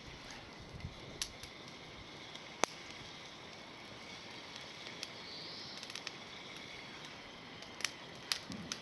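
Small bonfire of climbing-rose twigs burning, with sharp crackles and pops every second or so over a steady low hiss; the loudest pop comes about two and a half seconds in, and a cluster follows near the end.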